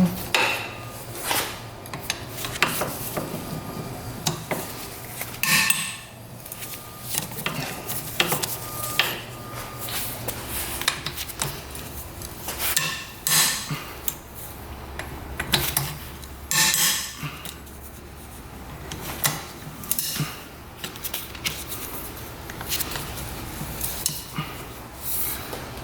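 Metal hand tools clinking and clanking at irregular intervals as a 12 mm wrench breaks engine bolts free on a 1985 Yamaha 225DX engine.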